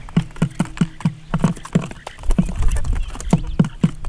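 A quick, uneven series of hollow knocks, about three or four a second, with a low rumble underneath for a second or so in the middle.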